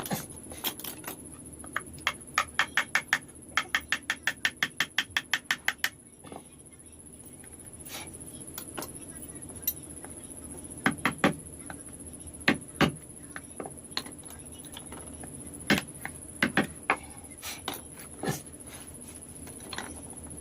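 Carving chisel driven into wood with a mallet: a quick run of light, even taps, about five a second, for a few seconds, then single, sharper strikes a second or so apart.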